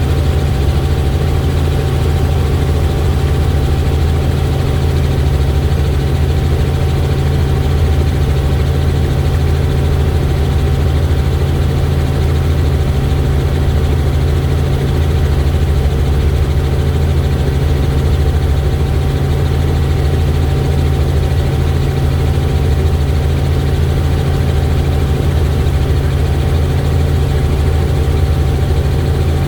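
Helicopter in flight: a steady, loud low drone of engine and rotor, with a faint steady whine above it.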